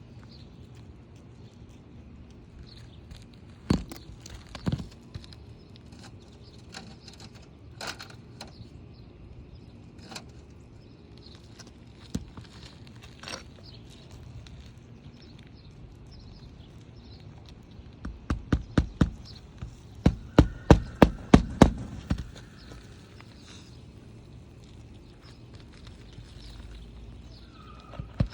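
Hammer blows driving nails during a roof shingle repair: a couple of single strikes early, then a quick run of about a dozen strikes, roughly four a second, about two-thirds of the way in, and two more at the end.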